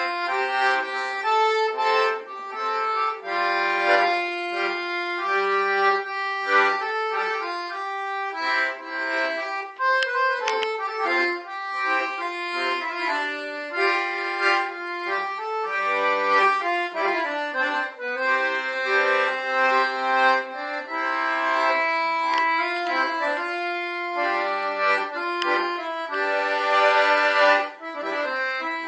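Accordion playing a lively Portuguese folk tune, a quick melody over chords and bass, with no singing.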